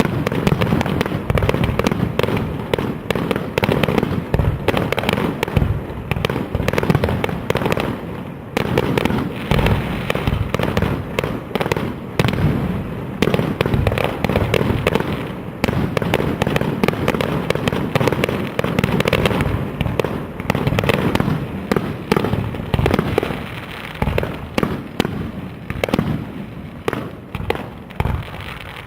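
Fireworks display in full barrage: a dense, unbroken run of bangs following one another many times a second, easing off slightly near the end.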